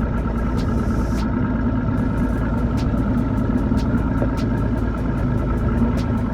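A boat motor running steadily, a constant hum over a low rumble, with a faint regular ticking several times a second.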